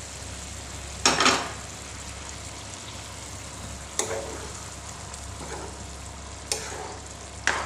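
A pan of chicken pulao (ghee-fried rice with hot water and milk added) sizzling and bubbling steadily on the stove. A wooden spatula knocks or scrapes against the pan four times, loudest about a second in, once around four seconds and twice near the end.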